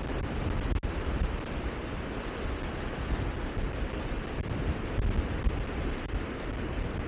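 Steady rushing noise, heaviest in the low range and without any tone, with a brief dip in level just under a second in.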